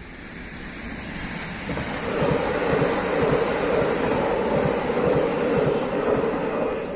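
Electric passenger train passing at speed over a level crossing. Rolling wheel and rail noise swells as it approaches and stays loud with repeated wheel clacks for about five seconds. It falls away near the end as the last car clears.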